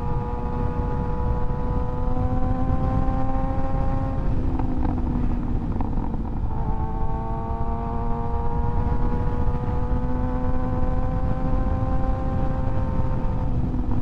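2024 Kawasaki ZX-6R's 636 cc inline-four engine running under way, its note climbing slowly as the bike gathers speed. The engine note drops away about four seconds in, comes back lower and climbs again, then drops away again near the end, as the throttle is rolled off or a gear is changed. A steady low rumble of wind on the microphone runs underneath.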